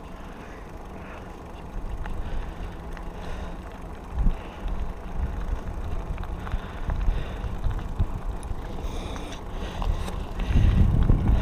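Diamondback Line hardtail mountain bike riding a dirt trail: tyre rumble and wind on the microphone, with small rattles and clicks from the bike and a knock about four seconds in. It gets louder near the end.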